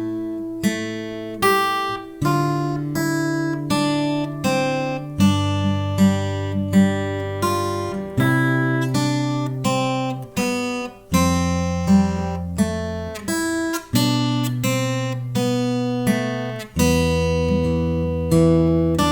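Classical six-string guitar playing a slow fingerpicked piece, plucked melody notes over held bass notes, each note struck and left ringing.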